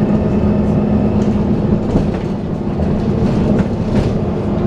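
Dennis Trident 2 double-decker bus under way: a steady engine and driveline drone with a held vacuum-cleaner-like 'hoover' whine, plus light rattles and clicks from the bodywork.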